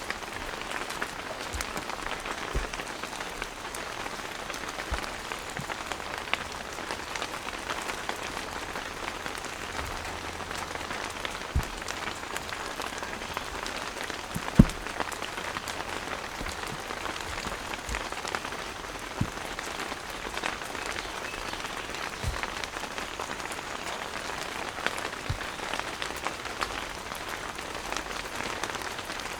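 Heavy rain falling steadily on a tent awning, a dense even patter with scattered louder drops and knocks, one clearly sharper thump about halfway through.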